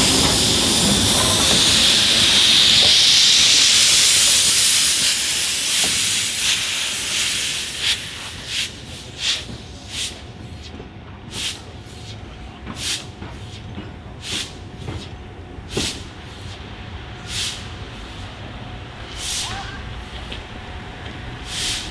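Steam locomotive releasing steam: a loud, steady hiss for the first five or six seconds that then fades, followed by a series of short, sharp steam puffs about once a second, unevenly spaced.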